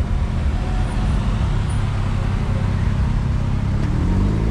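Car engine running steadily at low revs, its pitch rising slightly near the end.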